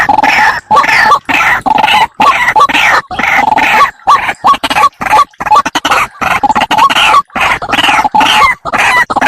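White-breasted waterhen (ruak-ruak) calling: a loud, rapid run of short calls, several a second, with a few brief breaks. This is the lure call used to draw the birds to a snare.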